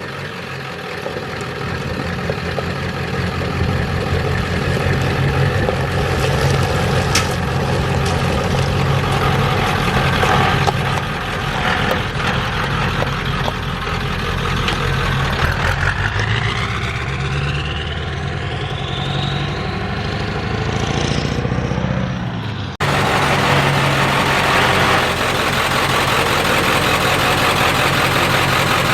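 Ford 7.3 Powerstroke turbo-diesel V8 running, with a whine that rises steadily in pitch over several seconds around the middle. The sound changes abruptly about three-quarters of the way through.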